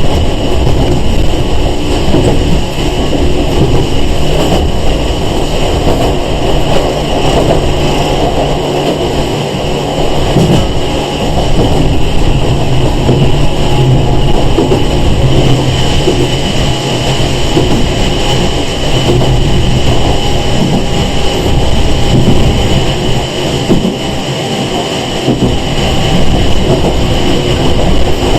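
Sangi Railway 101 series electric train heard from inside the carriage while running between stations: a steady rumble of wheels on rail and running gear, with a constant high tone and a low hum, and a few clicks over rail joints.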